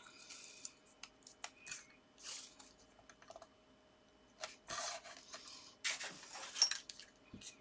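Tape being pulled and torn off a roll and pressed onto card stock: a string of small clicks and crinkles with a few short rasping pulls, the longest about five and six seconds in.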